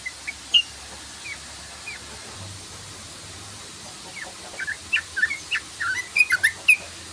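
Yellow-vented bulbul calling: a few scattered short chirps, then a quick run of chirps about four seconds in, over a steady hiss.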